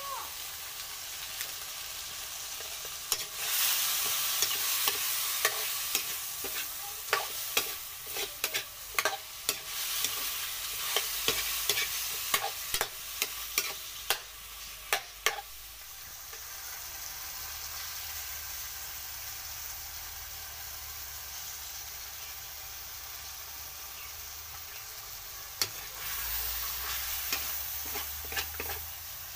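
Chicken pieces sizzling in a wok while a metal utensil stirs them, with many sharp clinks and scrapes of metal on the pan, thickest in the first half. The sizzling grows louder about three seconds in and again near the end.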